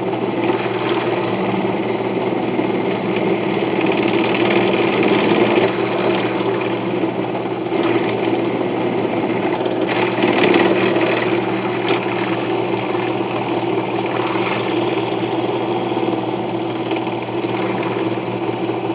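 Electric power tool running steadily while working a brass knife-guard piece, with a higher hiss that comes and goes several times as the metal is worked.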